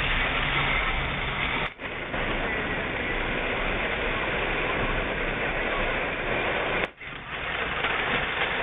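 Steady hiss of heavy rain falling, cutting out briefly twice.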